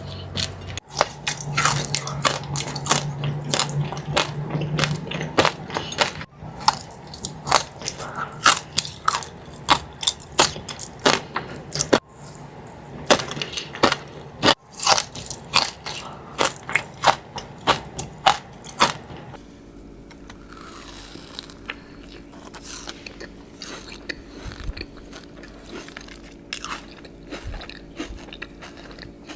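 Close-miked eating of a Dubai chewy cookie: biting and crunchy chewing through its crisp kataifi-and-pistachio filling, several crackly crunches a second. About two-thirds of the way through, the crunching turns quieter and sparser.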